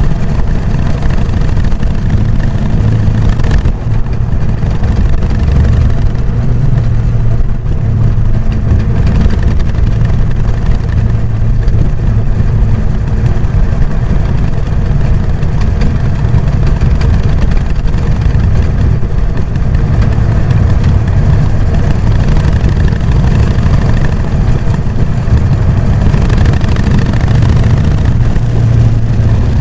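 Harley-Davidson Sportster XL883N Iron's air-cooled 883 cc V-twin running through its stock exhaust, a steady low, loping 'doko-doko' beat that swells and eases slightly.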